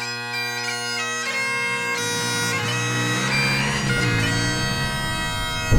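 Bagpipe music: steady drones under a chanter melody that moves from note to note.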